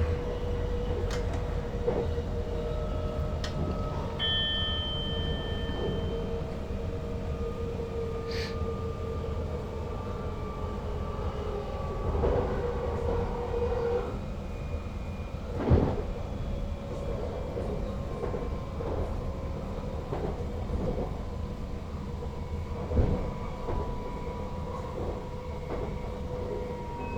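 NS Sprinter Lighttrain (SLT) electric multiple unit running on the track, heard from the driver's cab: a steady rumble of wheels on rail under an electric motor whine that slowly falls in pitch. There are two sharp clunks over track joints or points, one past the middle and one near the end, and a short high tone about four seconds in.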